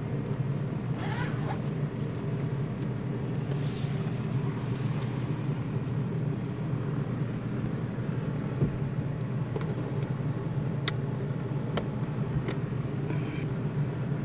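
A cast-iron pot of sausage and farro stew simmering down over the heat, a steady low rumble with a few faint clicks in the second half.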